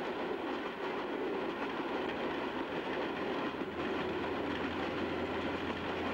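A train running along the track with a steady rolling rumble, and a low hum that joins about halfway through.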